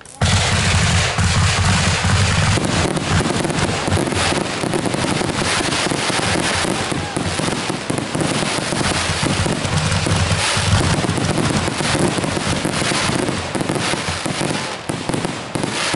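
Fireworks going off in a dense, continuous barrage of crackles and bangs. It starts suddenly and runs for about fifteen seconds before dropping away near the end.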